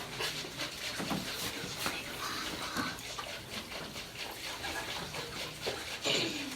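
Home-made sound effects for running eyes: a wet trickling and splashing noise with a few short, falling whimpering cries.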